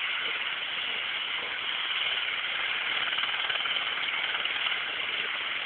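Helicopter's engine and rotor running steadily, a dense noise with a fast, even pulsing.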